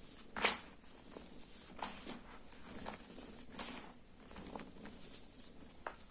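Sports chalk being handled by hand: soft, irregular crumbly scratches, about half a dozen, the loudest about half a second in.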